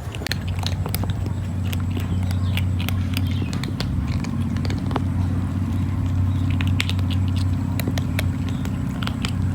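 Kitten chewing and biting its food: a busy, irregular run of small crisp clicks from its mouth, over a steady low hum.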